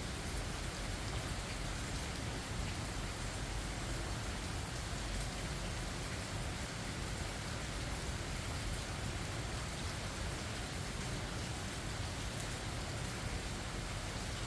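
Steady rain, an even hiss with faint scattered ticks of drops.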